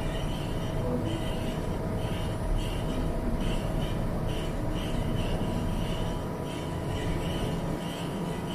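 Steady outdoor background rumble, like distant traffic, with a short high chirp repeating about twice a second.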